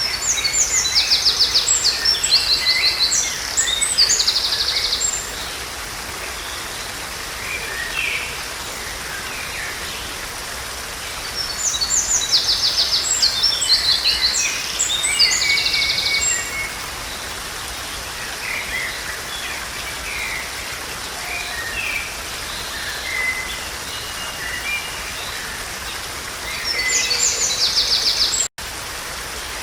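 A songbird singing bursts of fast trilled phrases, one every twelve seconds or so, over a steady hiss of running water. The sound cuts out for an instant near the end.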